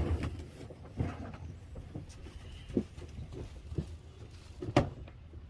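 Irregular knocks and clunks of hand work on an old building's wooden wall, the loudest a sharp knock near the end.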